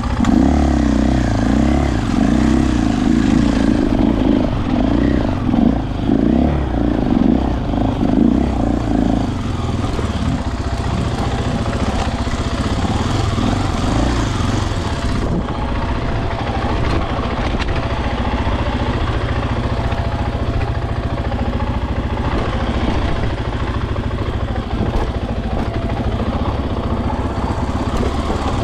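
KTM dirt bike engine running under way, with the throttle opened and closed unevenly for the first nine seconds or so, then pulling more steadily.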